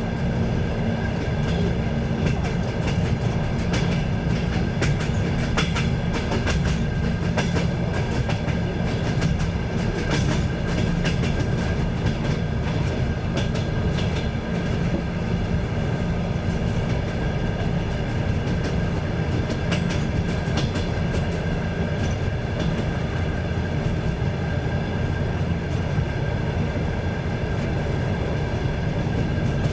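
Passenger train running along the line, heard from on board: a steady rumble of wheels on rails with scattered clicks as the wheels pass over rail joints.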